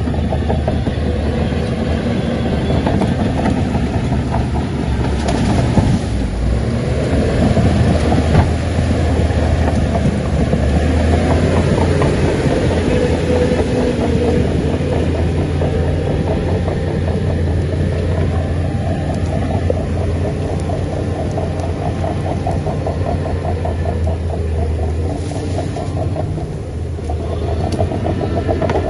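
Shantui crawler bulldozer working, its heavy diesel engine running steadily with a rapid rhythmic clatter of steel tracks.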